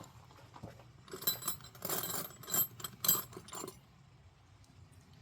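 Metal hand tools clinking and jangling against each other as they are rummaged through, a run of sharp ringing clinks lasting about two and a half seconds starting about a second in, with a few lighter ticks before it.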